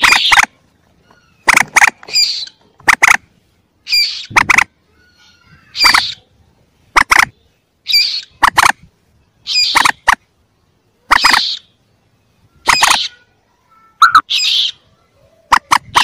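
Young common moorhens calling, from a looped lure recording: short, sharp calls, singly or in quick pairs, repeated about every second and a half.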